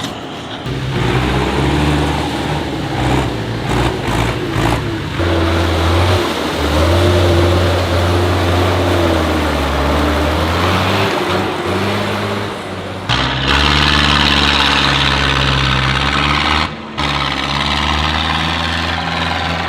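Tractor engines running, their pitch rising and falling as they rev. The sound changes abruptly twice, about two-thirds of the way in and again near the end, as one engine gives way to another.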